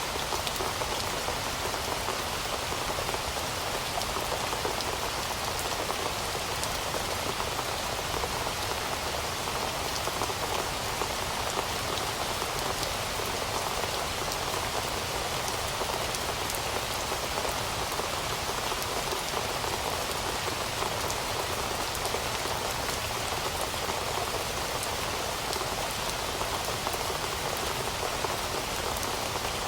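Steady rain: an even hiss of falling rain with a dense patter of individual drops striking surfaces, unchanging throughout.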